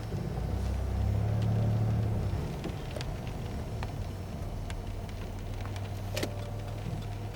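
Car engine running with a low rumble that swells briefly about a second in, as if accelerating, then settles to a steady drone. A few faint clicks sound over it.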